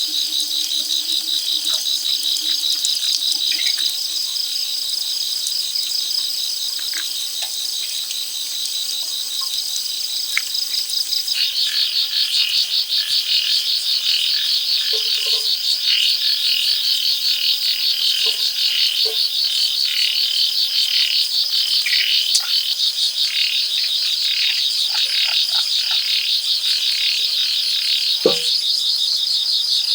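Rainforest insects calling in a loud, steady, rapidly pulsing high-pitched chorus that shifts in tone about a third of the way in, with scattered light clicks and one brief falling sound near the end.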